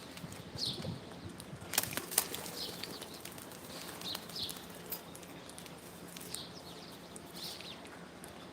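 Birds calling in short high chirps that fall in pitch, one every second or two, with two sharp clicks about two seconds in.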